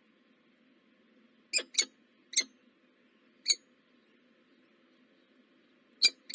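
Short, high, squeaky bird chirps at a nest, six in all: a quick cluster of three about one and a half seconds in, a single one a second later, and two close together near the end.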